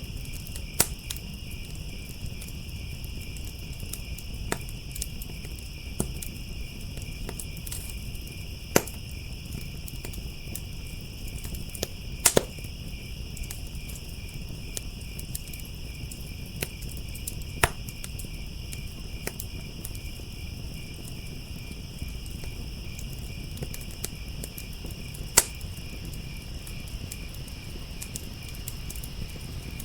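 A chorus of crickets chirping steadily, over a wood fire whose low rumble is broken by sharp pops and crackles at irregular intervals, the loudest a few seconds apart.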